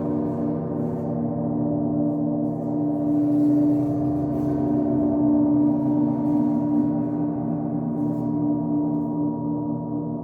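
Gong resonating with a dense wash of sustained overtones, low hum strongest, swelling gently in level with no sharp strike.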